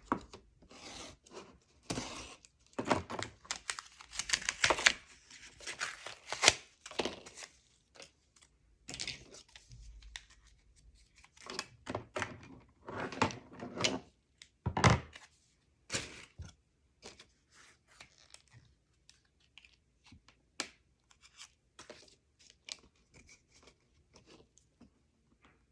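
Paper and cardstock being handled at a craft table: irregular rustling, peeling and light knocks as small magnets are fitted to a pocket page. The sounds come busiest in the first half and thin to small ticks near the end.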